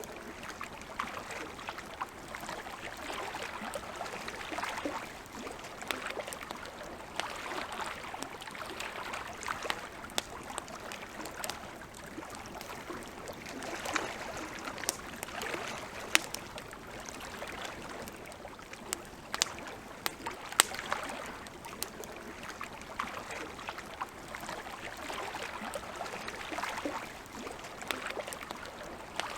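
Campfire crackling: frequent sharp pops and snaps of burning wood over a steady hiss that swells and eases every few seconds.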